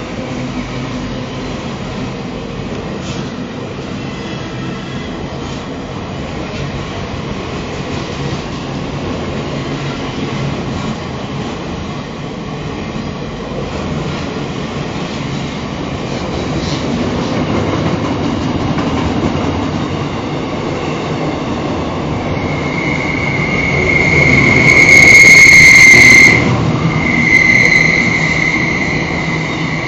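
Diesel freight locomotives, CLP12 and CLF7, working under power with a low engine rumble that grows louder through the second half. About three-quarters of the way in a high, steady wheel squeal sets in, cuts out briefly, then returns until near the end.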